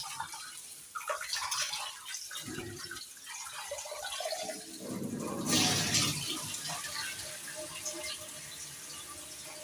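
Rice being washed by hand in a pot of water at a kitchen sink: water running and sloshing, with a louder splash about five and a half seconds in.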